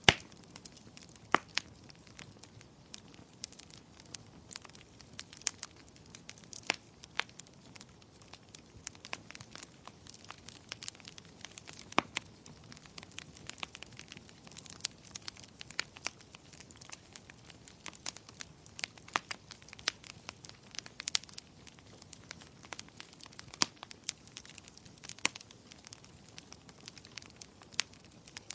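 Wood fire burning in a fireplace, crackling and popping at irregular moments over a soft hiss, with a sharp pop right at the start.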